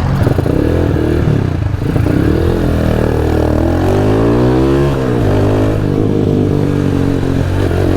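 Motorcycle engine with an aftermarket stainless exhaust pipe, pulling through a gear with the revs climbing, then dropping sharply at a gear change about five seconds in before running steadily.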